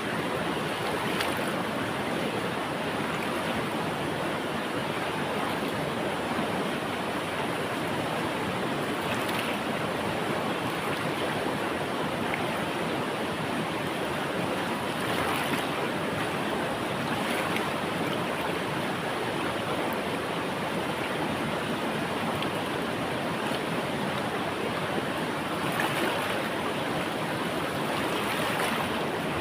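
Flowing river water, a steady rushing with small splashes standing out now and then.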